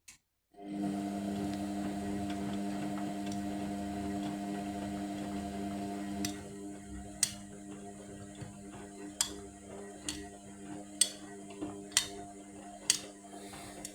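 Indesit washing machine in its main wash: the drum motor runs with a steady hum from about half a second in, eases off around six seconds in, and is then joined by sharp clicks or knocks about once a second.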